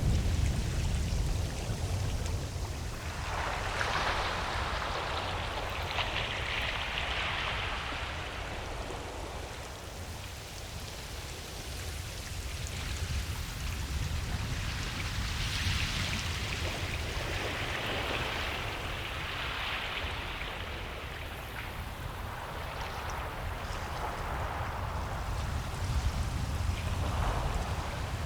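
Ocean surf washing up a beach: a steady low rumble under a hiss that swells and fades as each wave breaks and runs up the sand.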